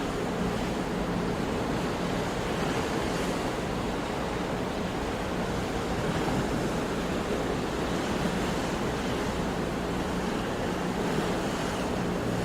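Sea waves washing on the shore in a steady surf, rising and falling gently in loudness.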